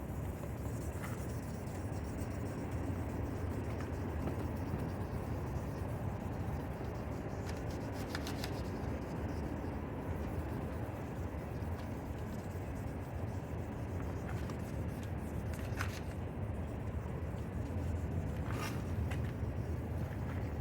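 Sandpaper rubbing over a plastic headlight lens during hand sanding, over a steady low rumble, with a few short clicks scattered through.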